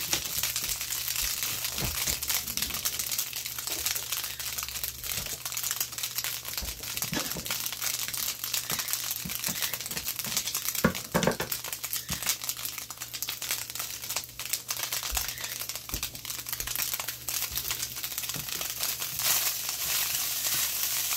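Crab, garlic and panko breadcrumb mixture frying in butter in a skillet, crackling steadily, with a spatula stirring and scraping it near the end.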